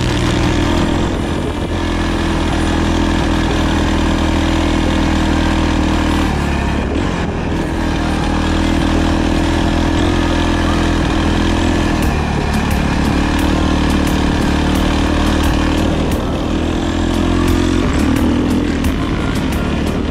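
Four-stroke 450 cc dirt bike engine running at steady revs, its note shifting a few times. A few light clicks come near the end.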